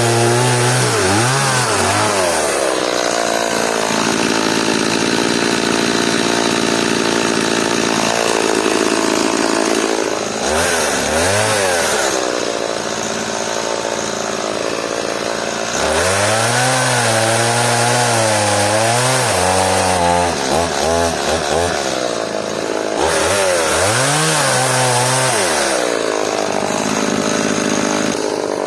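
Stihl MS180 two-stroke chainsaw cutting hard elm. The engine's pitch drops and holds low under load in the cut, then rises again as it revs up between cuts, several times over.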